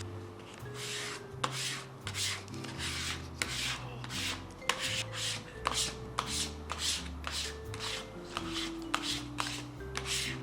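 Repeated rough abrasive strokes by hand, about two a second, with a few sharp clicks among them, over background music with a bass line.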